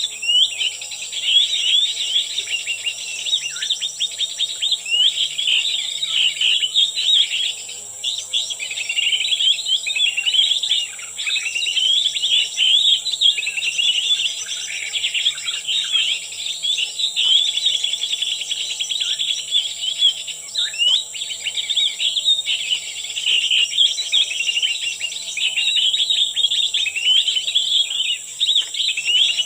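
Small birds twittering and chirping rapidly and without a break, with a steady high-pitched insect drone underneath.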